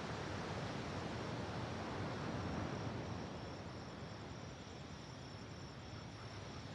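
Sea waves washing onto the shore, a surge building over the first few seconds and then easing off. A faint, steady high insect trill runs underneath.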